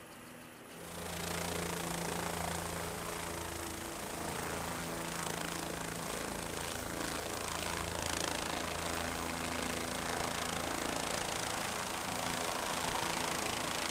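An engine running steadily with a low hum, cutting in about a second in.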